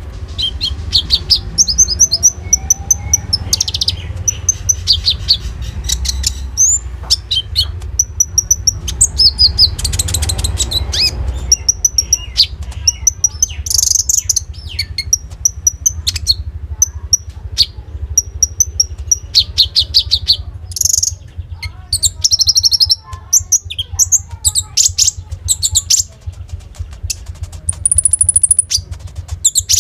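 A konin songbird singing a loud, rapid, chattering song of fast repeated notes and trills, packed with mimicked phrases of other birds. Near the end come thin, high whistled notes. A steady low hum runs underneath.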